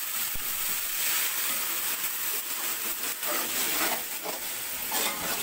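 Browned onions and ginger-garlic paste sizzling and hissing in hot oil in a metal pot as a splash of water boils off, with a metal slotted spatula scraping and stirring through them.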